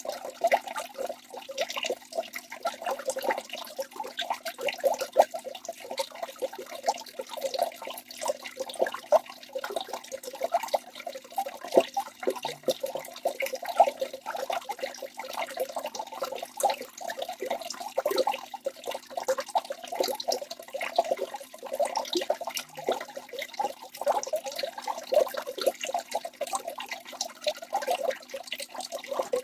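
Waterfall: water pouring and splashing steadily, a dense, unbroken patter of small splashes with little bass.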